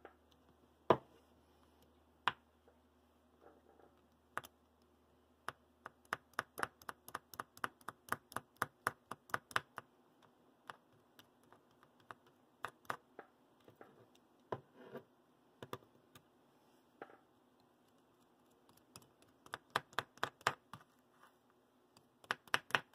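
Small sharp clicks and taps of hand tools on the model locomotive's motor while old solder is cleaned off. They come scattered at first, then in a quick irregular run of several a second, then scattered again with another flurry near the end.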